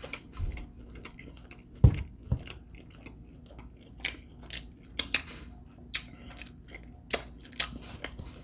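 A person chewing a mouthful of chicken wing close to the microphone: irregular smacks and clicks of the mouth, with a low thump about two seconds in and quicker, sharper clicks in the second half.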